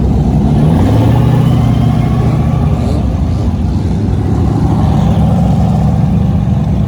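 Car engines rumbling at low speed as a line of cars drives past, one engine holding a steady low note.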